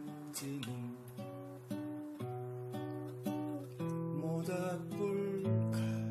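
Acoustic guitar playing an instrumental passage of the song, strummed and plucked chords with no voice.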